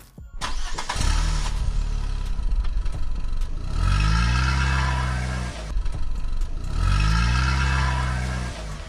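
An engine starting up about half a second in, then running steadily and revving up twice, each rev held for a couple of seconds before dropping back.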